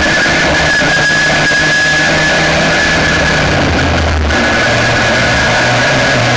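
Aixro rotary kart engine running at a fairly steady pitch, heard from a camera mounted on the kart, with a loud even hiss over a low hum.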